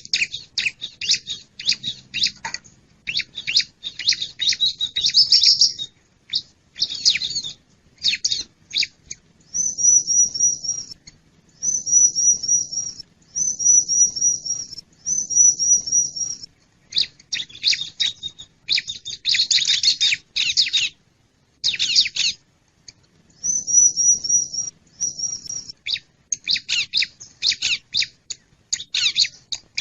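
Wild bar-winged prinia (ciblek) calling: quick bursts of sharp, high chipping notes, broken by short repeated trilled phrases, several in a row near the middle and a couple more later. The recording is a lure call, used to draw wild birds in.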